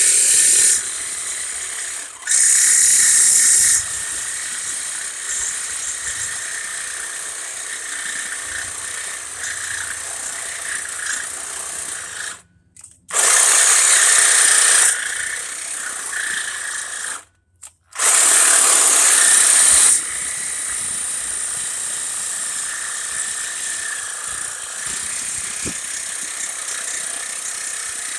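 Ryobi power tool cutting through exhaust flange bolts. It runs with a steady high-pitched whine and gets louder in several stretches as it bites into the metal. Twice it stops dead for a moment, then starts again.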